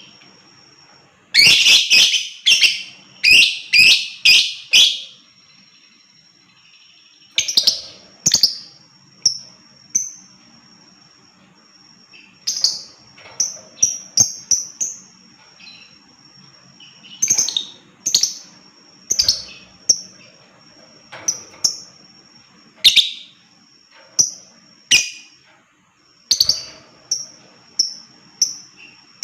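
Lovebird calling in short, sharp, high-pitched chirps: a quick run of about seven loud calls in the first few seconds, then scattered single and paired chirps at irregular intervals.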